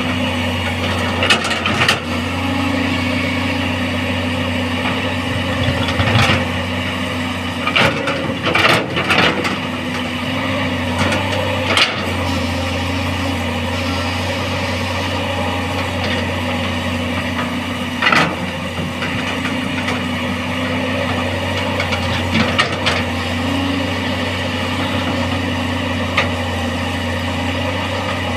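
Tracked excavator's diesel engine running steadily under load, with sharp clanks and knocks from the machine every few seconds as it struggles in mud. Its travel motors are weak, barely able to move the machine.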